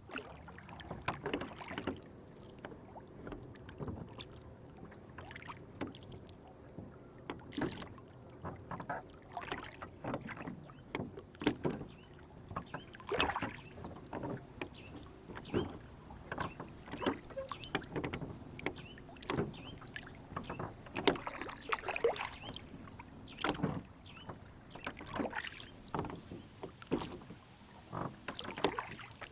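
Lake water lapping and splashing around a small rowing boat: many short, irregular splashes and drips over a faint steady wash.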